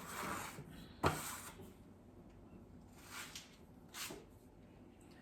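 Big plastering trowel spreading joint compound (mud) across a wall in four short scraping strokes.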